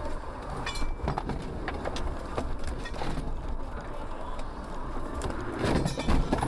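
Road and engine noise of a moving car heard from inside the cabin, a steady low rumble with scattered clicks, and a louder burst of noise about three-quarters of a second before the end.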